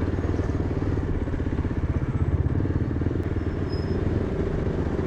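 Yezdi Adventure's single-cylinder engine running steadily at low road speed, a continuous rapid beat of firing pulses with a low hum underneath.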